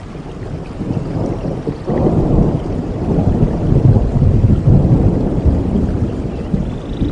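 Rolling thunder over steady rain: the rumble builds about a second in, is loudest around the middle, and eases off near the end.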